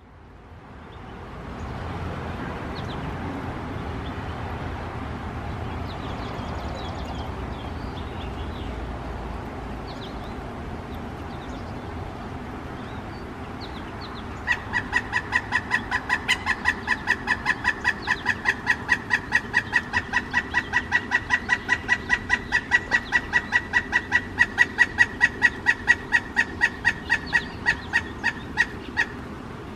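Male pileated woodpecker calling: a long, loud series of clucking notes at about four a second, starting about halfway in and stopping just before the end, over a steady low background hum.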